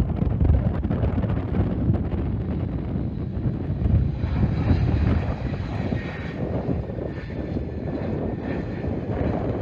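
Airliner engines running with a steady rumble and a faint high whine in the middle.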